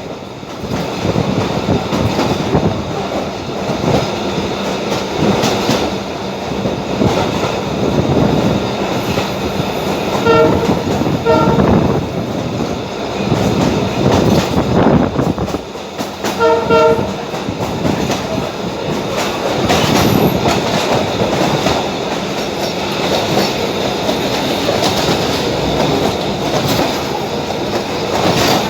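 Passenger train running, heard from on board: a steady rumble with wheel clatter over the rail joints. A train horn sounds twice, each time as a pair of short blasts, about ten and sixteen seconds in.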